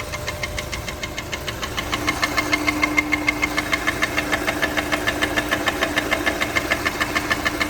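Honda S2000's four-cylinder engine running at a steady idle with a rapid, even knock, about seven a second, that gets a little louder about two seconds in. The uploader tags the noise as engine knock.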